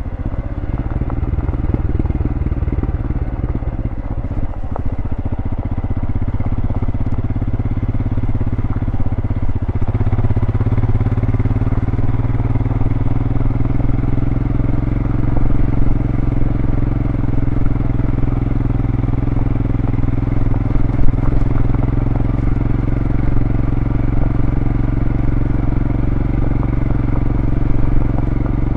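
2023 Royal Enfield Scram 411's single-cylinder engine through its stock exhaust, running under way. Its pitch shifts in the first ten seconds or so, then holds steady at a constant speed.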